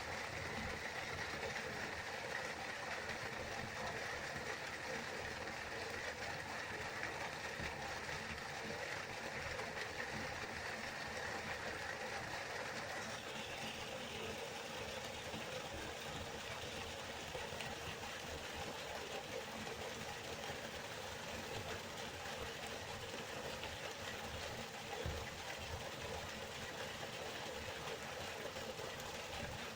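River water flowing, a steady rushing noise whose tone shifts slightly about thirteen seconds in.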